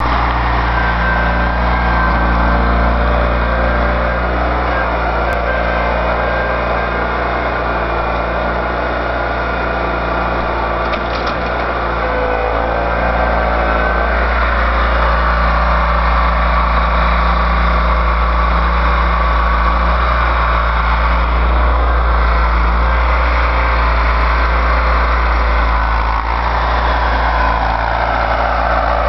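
A motor vehicle's engine running steadily, with a deep low rumble under an even hum. Near the end a falling whine glides down in pitch.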